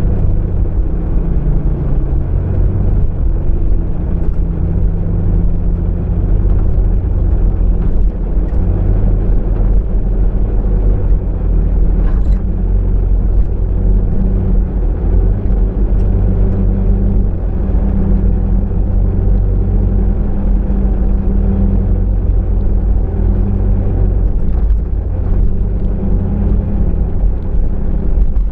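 Car driving: steady low engine and road rumble, with the engine note shifting slowly.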